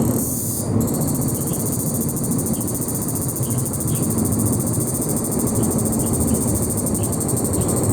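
Insects buzzing: a steady, shrill, rapidly pulsing drone that sets in about a second in. A low, steady rumble runs underneath.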